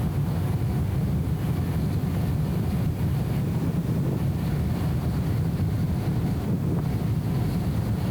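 Steady low rumble of a BMW E34 M5 Touring cruising, engine and road noise dulled by the camera's anti-wind audio filter.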